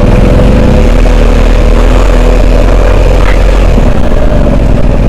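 Adventure motorcycle engine running steadily while riding an off-road track, its note shifting about a second in.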